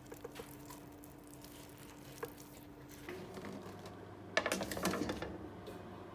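A steady low hum that changes about three seconds in, with a quick cluster of light clicks and clattering about four seconds in.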